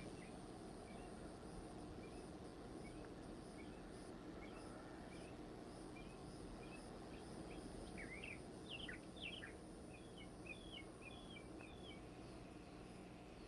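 Faint outdoor ambience: small birds chirping over a steady low background noise. The calls come scattered at first and are busiest about eight to twelve seconds in.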